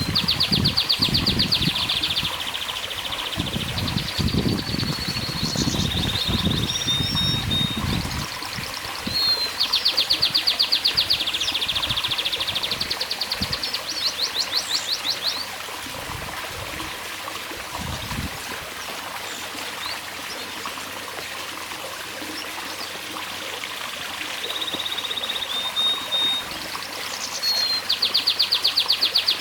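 Domestic canary singing: bursts of very fast trills alternating with short whistled notes, the song starting and pausing several times.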